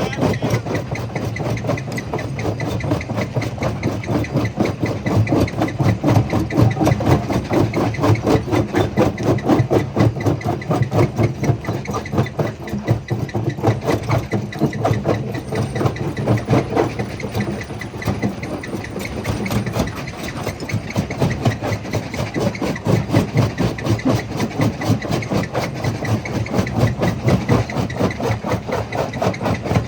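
Jaw crusher running, its machinery giving a steady, fast rhythmic pounding with rattling as stones are broken.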